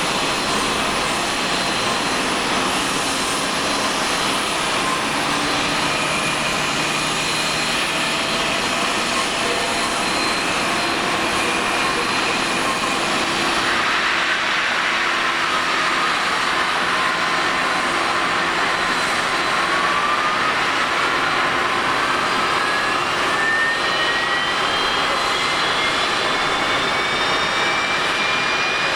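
Boeing 737-500's CFM56-3 jet engines running, a steady rushing noise with a thin whine. About two-thirds in, a whine climbs steadily in pitch as an engine spools up.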